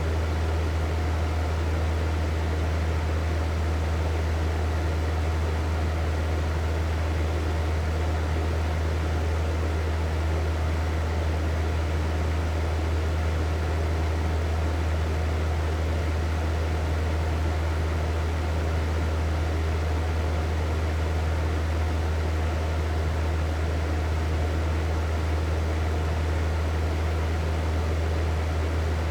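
Hair dryer running steadily, with a strong low motor hum under an even rushing airflow noise that does not change.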